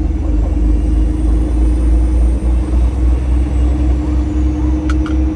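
Cab of a semi truck under way: steady low engine drone and road rumble with a constant hum, and a few light clicks near the end.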